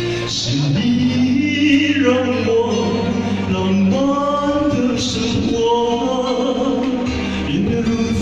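A Mandarin pop ballad: a male voice sings a slow melody over a band accompaniment.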